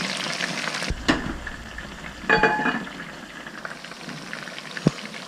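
Beer-battered fish pieces deep-frying in hot oil, a steady sizzle full of fine crackles that drops lower about a second in. A brief clink rings out about halfway through.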